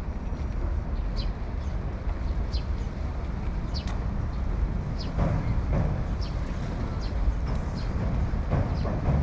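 Outdoor city ambience: a steady low rumble with short, high chirps about once a second, like small birds calling.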